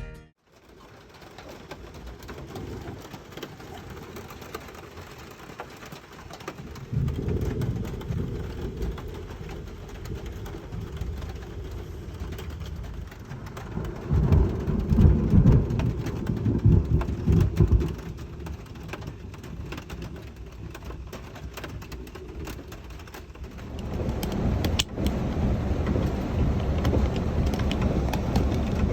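Heavy rain falling steadily during a thunderstorm, with low rolling thunder rumbles about seven seconds in, louder ones from about fourteen to eighteen seconds, and more building near the end.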